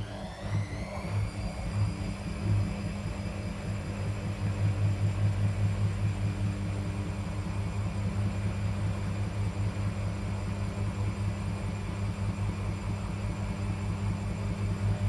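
Washing machine spinning up. The drum motor's whine rises in pitch for about the first second, then holds steady at full spin speed over a pulsing low hum.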